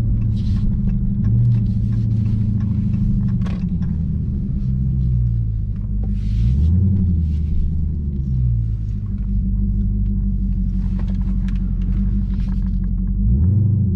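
Low engine drone of a Dodge Hellcat's supercharged V8 at low speed. Its pitch rises and falls several times as the throttle and speed change, around 1, 5, 7, 8 and 13 seconds in.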